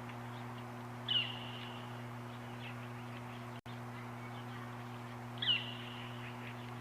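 A bird giving the same call twice, about four seconds apart: each a quick drop in pitch into a held, whistled note under a second long. A steady low hum runs beneath.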